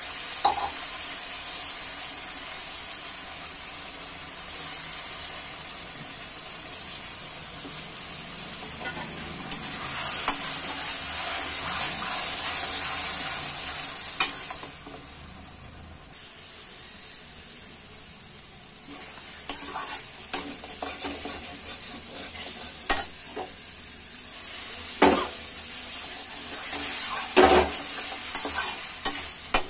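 Mutton and wet green masala paste sizzling in a steel wok while a slotted metal spatula stirs and scrapes through it. Sharp clinks of the spatula against the pan come several times in the second half.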